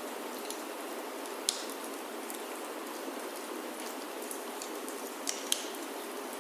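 Steady rain falling on a wooden chalet roof, with sharp pops from a crackling wood fire in a fireplace. The loudest pop comes about a second and a half in, and two more come close together near the end.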